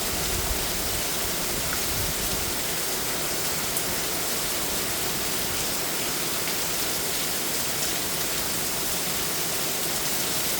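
Torrential rain pouring down in a steady, even roar of water, with runoff falling like a waterfall.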